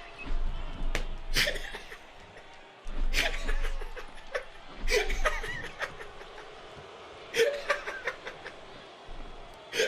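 People laughing in short bursts, several snickers and chuckles spaced a second or two apart.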